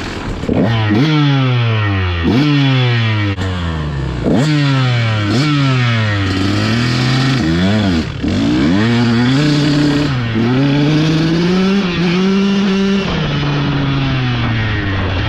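Dirt bike engine under throttle on a trail: several sharp blips of revs in the first six seconds, each falling away again, then running at steadier, rising and falling revs.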